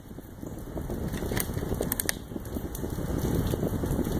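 Rain pattering and crackling close to the microphone, growing a little louder, with a few faint clicks between about one and a half and two seconds in.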